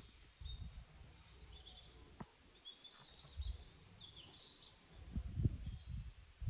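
Small birds chirping, with short high calls that slide in pitch, over a low uneven rumble. A few sharp clicks are heard, one about two seconds in.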